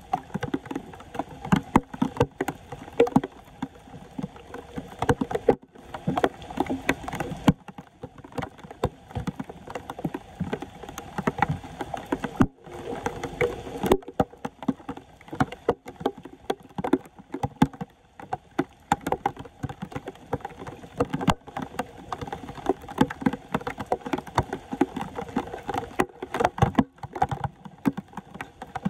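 Floodwater splashing and sloshing, with many irregular knocks and scrapes.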